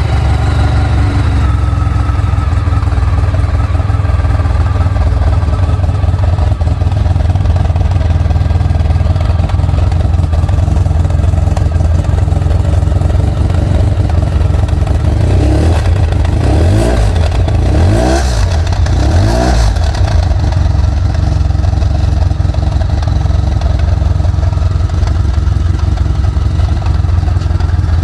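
Honda VFR1200F's V4 engine idling steadily through its exhaust, blipped three times in quick succession about halfway through, each rev rising sharply and dropping back to idle.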